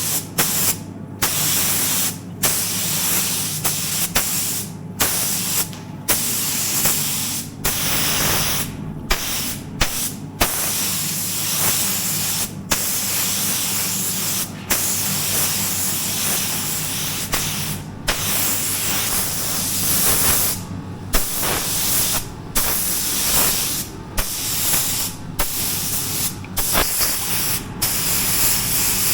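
Paint spray gun spraying, a loud hiss in repeated passes cut by short gaps where the trigger is released, over a steady low hum.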